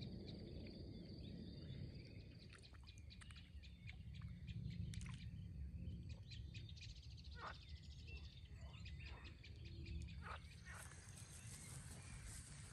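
Outdoor nature ambience: a faint steady insect trill with many short animal chirps and calls scattered throughout, over a low rumble. A higher shrill band of insect sound comes in about ten seconds in.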